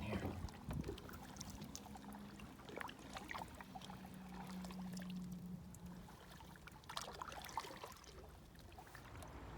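Faint splashing and trickling of water around a kayak being paddled along a small stream, with small drips and splashes bunched about three seconds in and again about seven seconds in.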